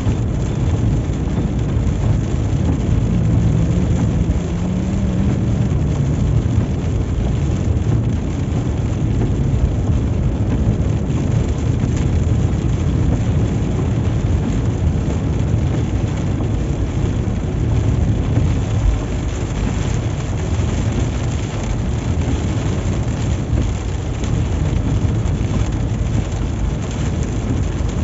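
Steady rumble and tyre noise of a vehicle driving on a wet highway, mixed with heavy rain on the bodywork. A faint engine note shows near the start.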